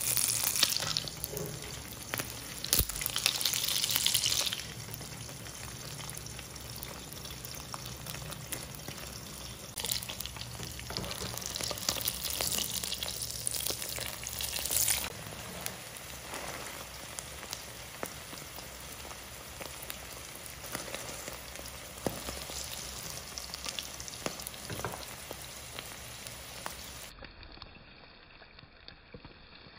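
Shrimp omelette frying in oil in a nonstick pan: a steady sizzle with fine crackles. The sizzle grows louder in two spells, at the start and again from about ten to fifteen seconds in, as a spatula lifts and flips the omelette.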